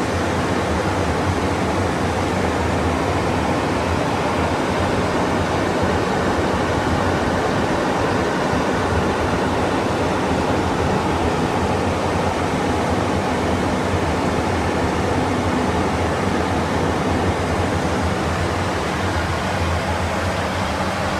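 Steady rushing noise inside an aircraft cockpit in flight, airflow and engine noise, with a constant low hum underneath.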